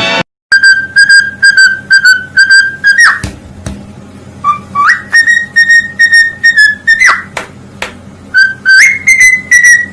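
Pet bird whistling: runs of short whistled notes on one pitch, about two a second, broken by quick upward-swooping whistles.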